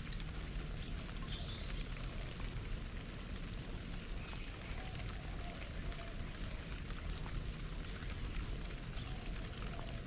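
Steady patter of water with many small drips and splashes, and now and then a faint short bird call.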